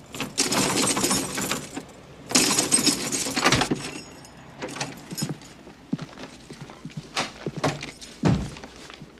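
Noisy clattering and rattling in two long spells, followed by scattered light knocks and a low thud near the end.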